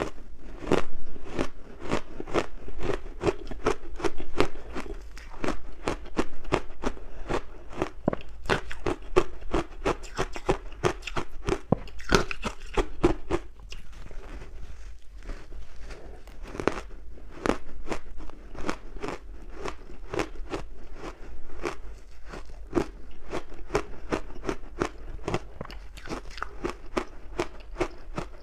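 Close-miked crunching of ice being bitten and chewed, a rapid, continuous run of sharp cracks, several a second.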